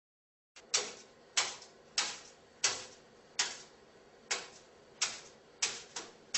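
Regular sharp taps on a hard surface, about one every two-thirds of a second, eight or nine in all, starting about half a second in; they fit a parrot hopping.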